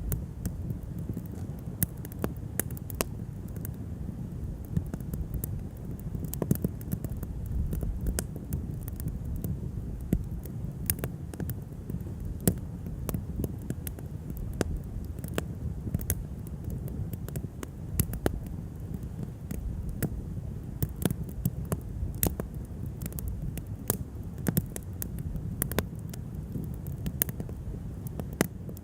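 Wood fire burning, with irregular sharp cracks and pops of the burning wood over a steady low rumble.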